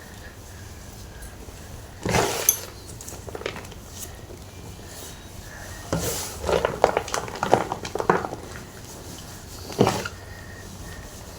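Gym chalk crunching and crumbling in short bursts: one about two seconds in, a quick run of crunches around the middle, and one more near the end.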